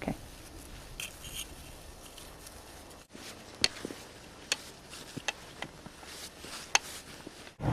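Faint steady background with a few short, sharp clicks or taps scattered through it, and a brief dropout about three seconds in.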